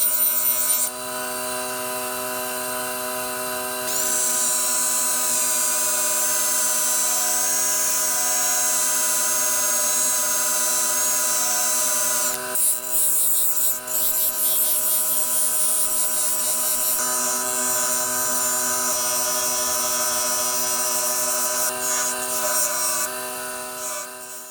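An electric power tool running steadily while a metal part is worked against it, giving a high hissing grind that changes several times; the tool winds down and stops near the end.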